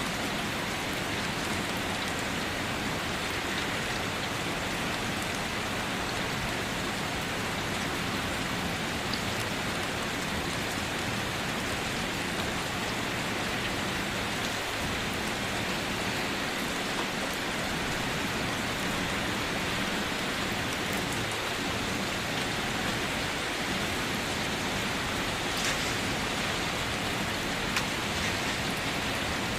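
Steady rain falling on a car, an even hiss with scattered faint drop taps.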